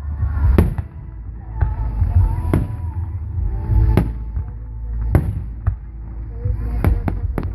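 Fireworks display: aerial shells bursting with sharp booms about once a second, several coming close together near the end, over a continuous low rumble.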